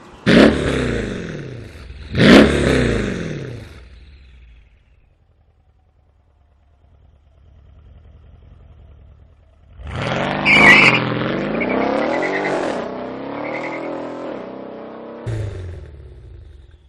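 Mercedes CLS 63 AMG V8 exhaust revving: two sharp throttle blips whose pitch falls away as the revs drop, then after a pause a longer run of revving with the pitch rising and falling, and one last short blip near the end.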